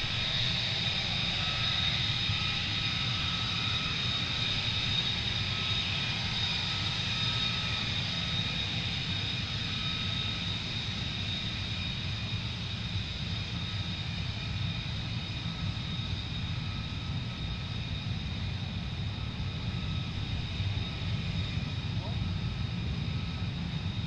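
F-35 fighter's F135 turbofan running steadily as the jet taxis, a high whine with several steady tones over a low rumble.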